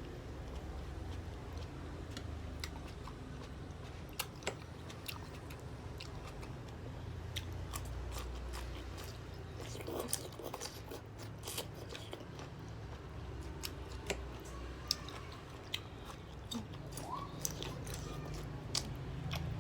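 Close-miked chewing of soft jajangmyeon noodles, with many scattered wet mouth clicks and smacks over a steady low hum.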